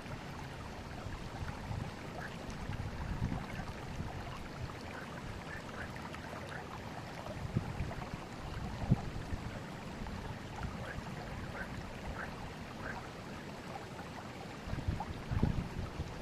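Forest river flowing, a steady rush of water with small scattered gurgles and trickles. A few louder low surges come about halfway through and again near the end.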